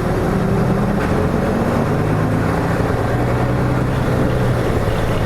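Nissan Diesel KK-RM252GSN route bus under way: the diesel engine runs with a steady low drone mixed with road noise, holding an even pitch.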